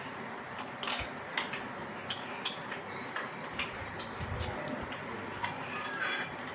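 Irregular light clicks and taps of eating utensils against a plate, about seven or eight over several seconds, with a short hiss near the end.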